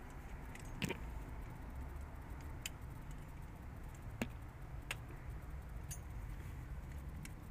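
Five or so sharp, separate clicks a second or more apart over a steady low rumble.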